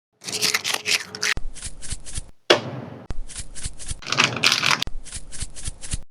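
Food-preparation handling sounds: rapid runs of sharp taps and rustling, about five or six strokes a second, in several short bursts that start and stop abruptly.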